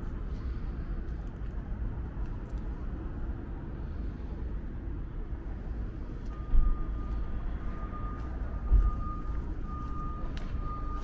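Steady low rumble of city traffic. About six seconds in, a high pulsing tone starts and runs on, and there are two brief low thumps.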